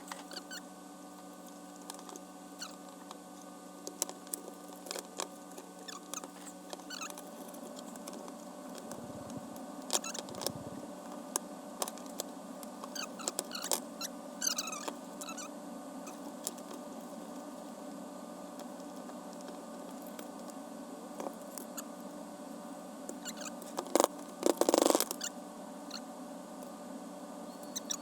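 Small clicks, taps and scrapes of hands and tools working metal fittings while removing and installing a gas water heater's thermocouple, over a steady low hum, with a louder clatter about 24 seconds in.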